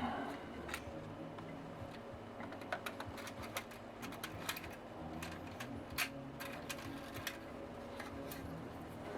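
Tascam MD-801R MiniDisc deck's mechanism clicking and ticking irregularly over a low steady hum as it powers up with a newly fitted laser pickup, trying to spin up and read the disc.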